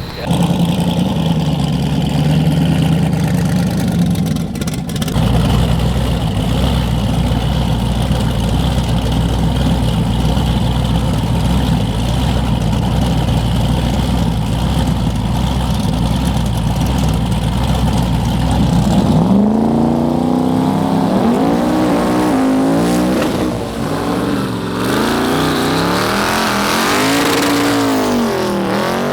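Drag cars' engines idling with a steady low drone, then from about two-thirds of the way in revving up and down again and again.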